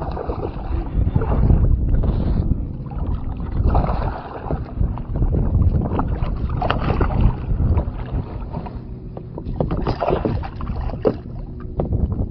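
Water splashing and lapping around a fishing kayak, swelling every few seconds, with wind rumbling on the microphone and scattered small knocks.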